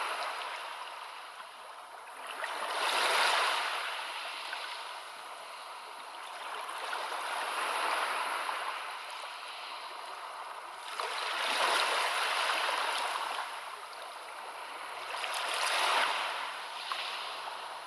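Sea waves washing in on a shore: a rushing hiss that swells and falls away four times, about every four to five seconds.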